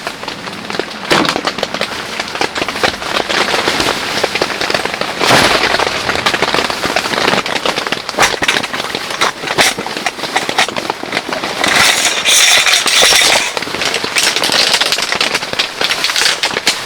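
Heavy rain spattering close by, a dense crackling patter of drops striking a hard or taut surface, swelling to a louder hiss about twelve seconds in.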